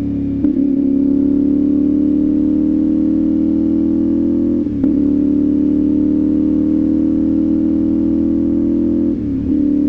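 CFMOTO 450SS 449 cc parallel-twin engine running at steady high revs on the expressway, its pitch creeping slowly up, with short breaks near the start, about halfway and near the end.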